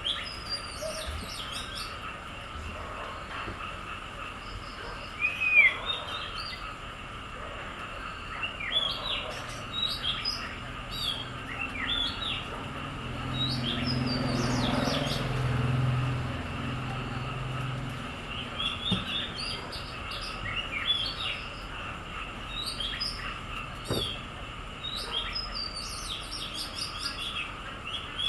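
Small birds chirping and tweeting in quick, short calls over a steady high hum. A low rumble swells and fades about halfway through.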